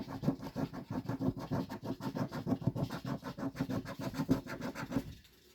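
Scratch-off lottery ticket being scratched: quick, repeated back-and-forth strokes rubbing off the coating, stopping about five seconds in.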